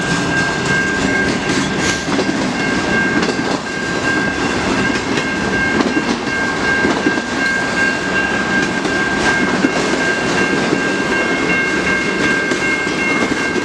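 Freight train cars rolling past at speed: a steady rush of wheels on rail with frequent clicks of wheels over joints, and a steady high-pitched ringing tone held over it.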